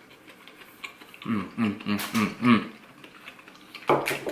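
Close-mouthed chewing of a crispy fried corn dog, with a scatter of small crunchy clicks. A run of four or five short hummed 'mm' sounds comes about a second in, and one more short hum near the end.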